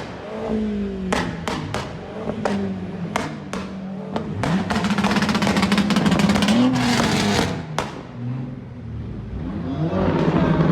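Sports car engines revving and accelerating along the street. A series of sharp pops comes in the first few seconds, then a loud run of revving between about four and eight seconds in.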